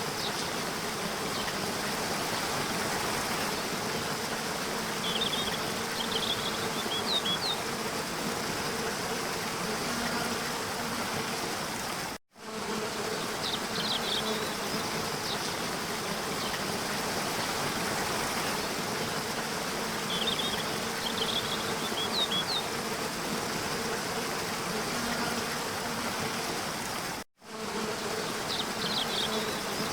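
Waterfall rushing steadily, with short bursts of high bird chirps several times. The sound cuts out abruptly for a split second twice, at a loop join.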